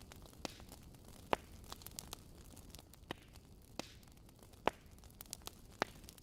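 Fireplace fire crackling: irregular sharp pops and snaps over a soft steady hiss, with the loudest pops a little over a second in and near the middle.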